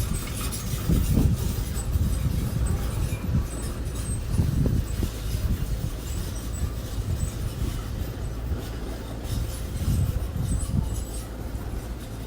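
Earthmoving machinery engine running under load, a low, uneven rumble that swells and eases every second or so, with a faint steady whine above it.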